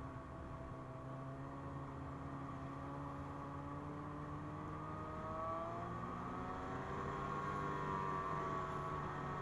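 2017 Ski-Doo MXZ 600 Carb Sport's carbureted two-stroke twin running at trail speed, its pitch steady at first and then rising and getting louder about six seconds in as it speeds up.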